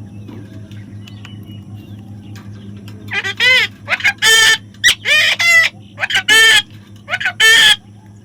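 Parrot squawking: about five loud, harsh calls roughly a second apart, starting about three seconds in, over a steady low hum.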